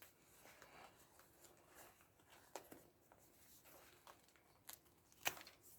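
Faint handling noise: light clicks, taps and rustles of small tools and a stone being picked up and set down on a table, with a couple of sharper taps near the end.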